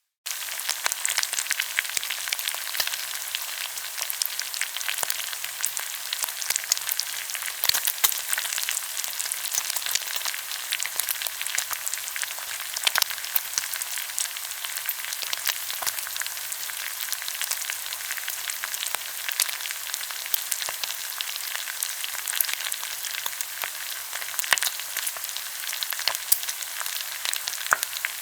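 Pork belly sizzling on a hot grill, a dense steady crackle with many sharp spitting pops of fat.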